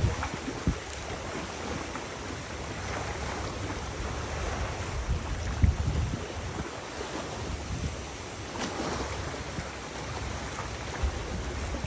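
Wind buffeting the microphone in low rumbling gusts, over a steady rush of wind and moving water.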